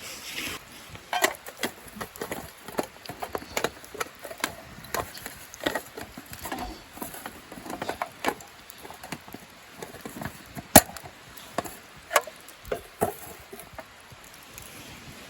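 Irregular chopping and knocking on wood, with one sharp, loud crack about eleven seconds in.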